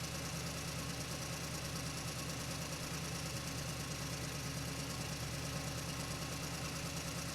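Bulldozer engine sound: a diesel engine running steadily at idle with a rapid, even chug.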